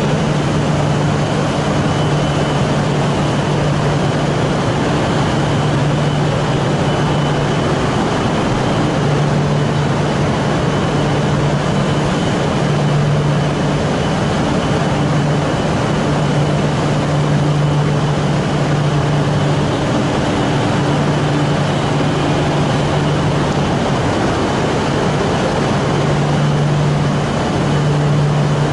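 Steady hum of a Shinkansen train alongside the platform, with a low drone that comes and goes every few seconds and a faint high whine over it.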